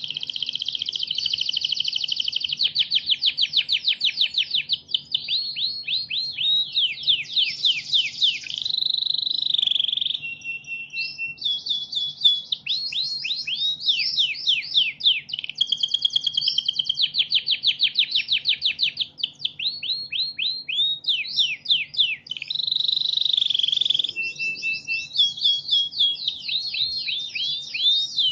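Recorded songbird song played as bird-training audio: a continuous stream of rapid, high sweeping notes and fast trills, broken by a few short whistled notes.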